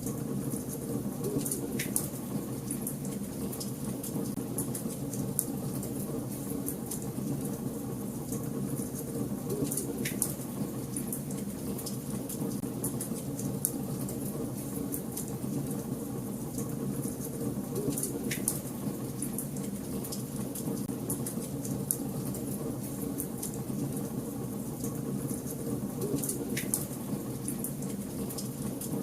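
Wood fire burning in a fireplace: a steady low rush of flames with frequent small crackles and pops, several of them sharper and louder.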